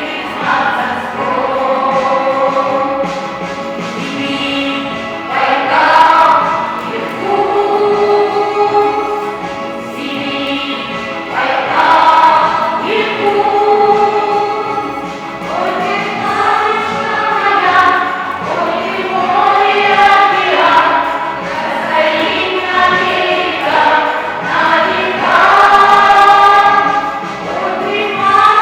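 Children's vocal ensemble singing a song in parts, with instrumental accompaniment.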